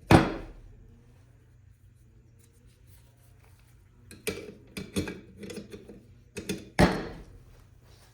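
Sharp knocks and clatter of hard objects being handled: a loud knock at the start, a run of smaller knocks a little past halfway, and another loud knock near the end.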